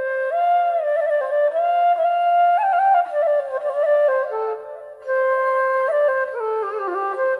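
Background music: a solo flute playing a melody that moves in small steps, with a short gap about four and a half seconds in.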